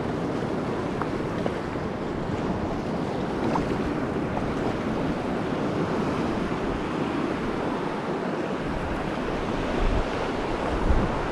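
Choppy sea swell and waves washing around, a steady rush of water noise with wind on the microphone.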